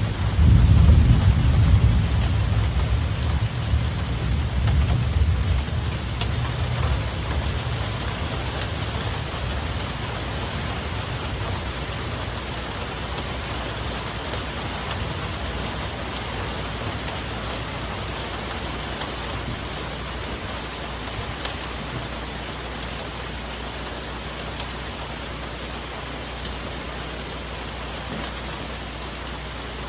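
Steady rain falling on autumn forest foliage, with a deep roll of thunder that breaks in at the start, peaks after about a second and fades away over about ten seconds.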